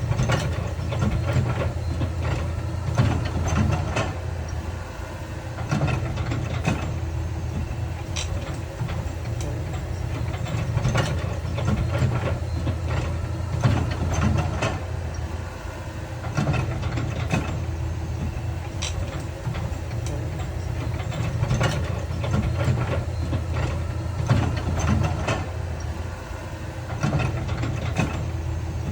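Diesel engine of heavy construction machinery running steadily, with frequent short knocks and clatters through it.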